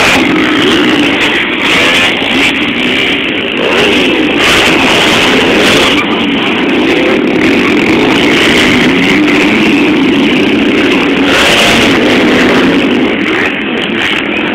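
Motocross motorcycle engines running hard and revving, the pitch rising and falling continuously.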